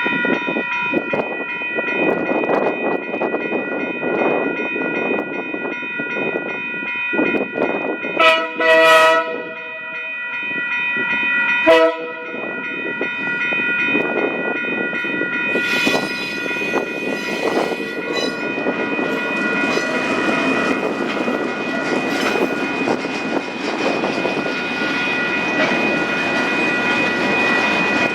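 KiwiRail DL class diesel-electric locomotive hauling a freight train of container and curtainsider wagons past, the wagons rumbling along the rails with a steady high-pitched whine. The locomotive's horn sounds twice in toots: about a second long around 8 s in, then a short one about 12 s in.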